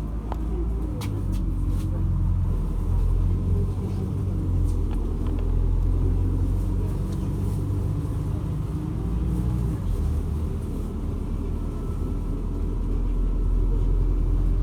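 A MAZ-206 city bus in motion, heard from inside: a loud, continuous low rumble of engine and drivetrain through the body, which the rider finds a heavily vibrating bus.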